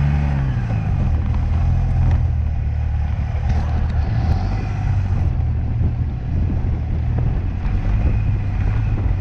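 Car engine running under way, a steady low drone after the revs drop at the start.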